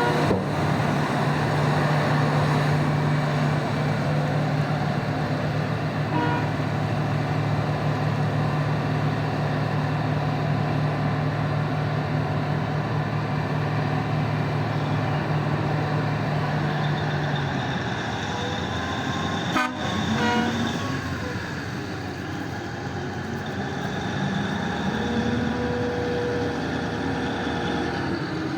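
Heavy diesel mining machinery at work: the 994 loader and BelAZ haul trucks running with a steady drone, then revving up and down after about seventeen seconds. Short horn toots sound around six and twenty seconds in, with a sharp knock near the second one.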